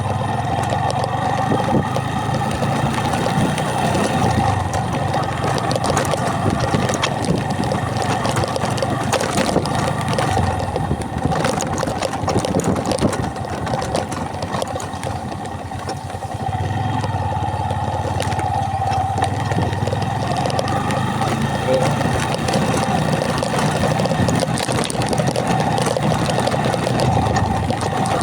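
A motor vehicle's engine runs steadily on the move, easing off for a few seconds about halfway through and then picking up again.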